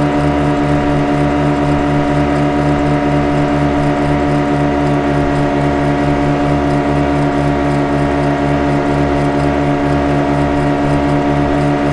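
Motorboat engine running at a steady speed: a constant droning hum with a regular pulsing throb in the low end.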